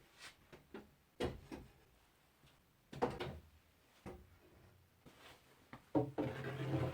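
Wooden beehive frames being set one after another into a wooden chest: several separate knocks and scrapes of wood on wood, with a louder clatter near the end.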